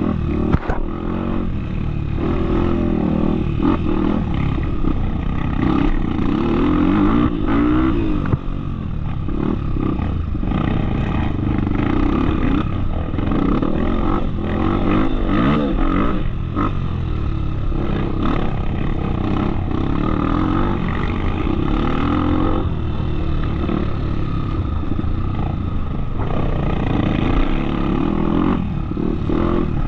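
Off-road trail motorcycle's engine running under way, its pitch rising and falling with the throttle, with a few knocks and clatters from the ride.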